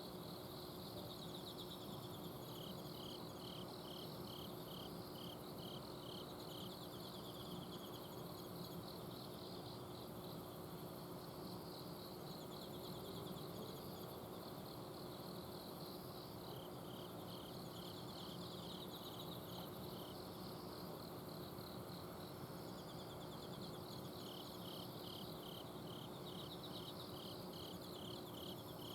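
A night chorus of autumn insects calling. Several overlapping trills run alongside bouts of short, evenly spaced chirps, about two or three a second, that stop and start again. Underneath is a steady hum from an air conditioner's outdoor unit.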